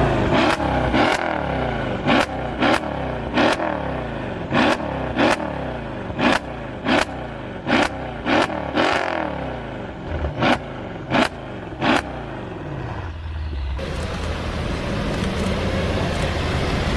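Mercedes-AMG engine revved in repeated sharp throttle blips, each with a loud crack from the exhaust, the revs falling away between them; after about twelve seconds this gives way to a steadier low engine rumble.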